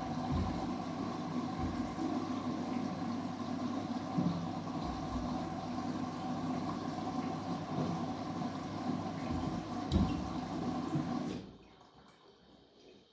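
Washing machine running with a steady rush of water, a faint steady hum and occasional low thumps, cutting off abruptly about eleven seconds in.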